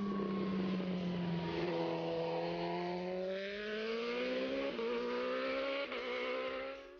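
Kawasaki Ninja ZX-RR MotoGP racing motorcycle's inline-four engine on track. The engine note drops for about two seconds, then climbs steadily as it accelerates, with two brief breaks in the rise, and fades away at the end.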